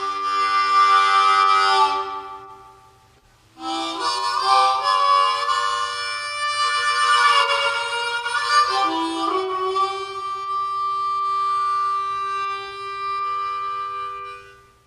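Harmonica music playing held chords in two phrases, with a short break about three seconds in; the last chord is held and fades out at the very end.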